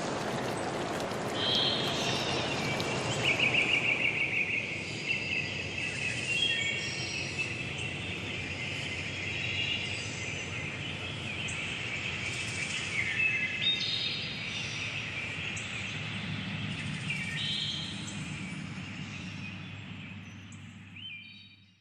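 Birds chirping and calling over and over, several voices overlapping, with running water beneath that is strongest for the first few seconds and then drops back. Everything fades out near the end.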